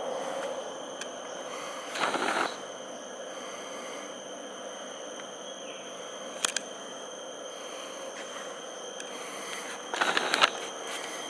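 Mangrove forest ambience: a steady high-pitched drone of insects. Two brief rustling scuffs come about two seconds in and near the end, and a single sharp click falls midway.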